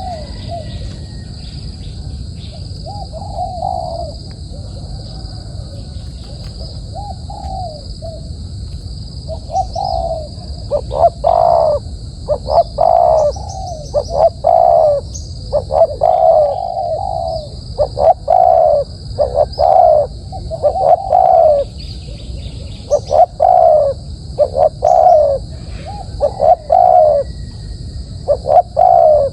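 A dove cooing over and over in short low coos, faint and sparse at first, then loud and coming about once a second from about ten seconds in. A steady high-pitched drone runs underneath.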